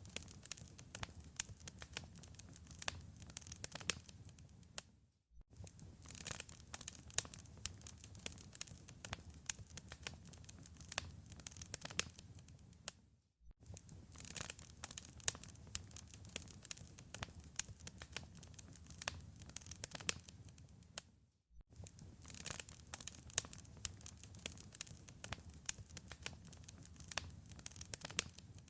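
Wood fire in a fireplace crackling, with frequent sharp pops over a low rumble of the flames. The sound cuts out briefly three times, about every eight seconds.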